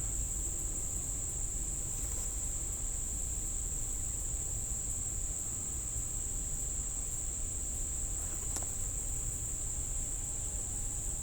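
Steady, unbroken high-pitched chorus of crickets in grassland, with a low steady rumble underneath.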